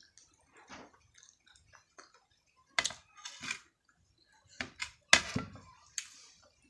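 Close-up wet chewing and lip-smacking of a person eating. Sharp smacks come in clusters about three seconds in and again between four and a half and six seconds, with quiet pauses between bites.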